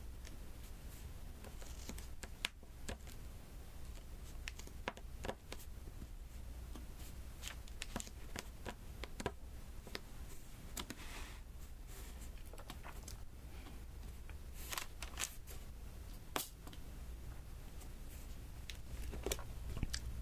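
Diamond painting: small resin drills picked up with an applicator pen and pressed one by one onto the sticky canvas, giving irregular light clicks and taps with a few brief scratchy strokes.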